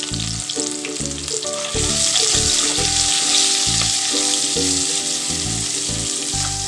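Green chillies, ginger paste and turmeric sizzling in hot mustard oil in a non-stick kadai, stirred with a spatula. The sizzle gets louder about two seconds in.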